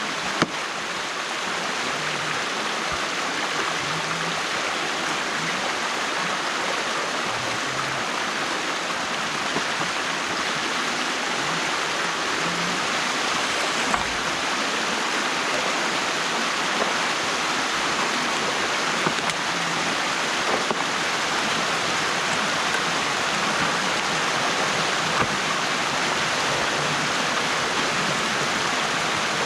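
Water rushing steadily through a breach in a beaver dam, with a few short knocks here and there.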